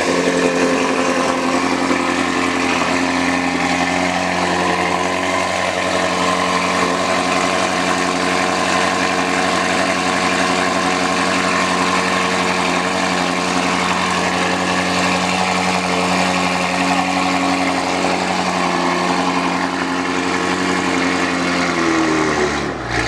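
Supercharged LSA V8 engine idling steadily at a raised idle. Its engine speed drops off near the end.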